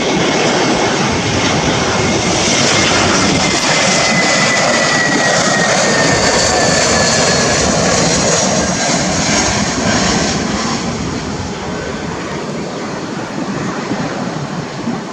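Jet airliner passing low overhead on approach to land: a loud rush of engine noise with a thin whine that slides down in pitch as it goes by, fading away in the last few seconds.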